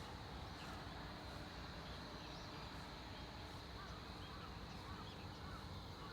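Small birds chirping faintly, short scattered calls over a steady low outdoor rumble.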